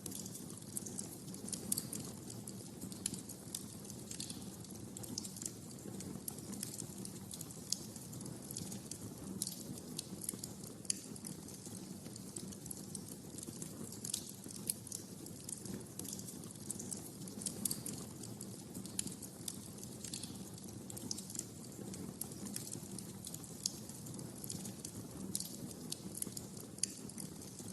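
Wood fire crackling in a fireplace: an irregular scatter of sharp snaps and pops over the low rumble of the flames.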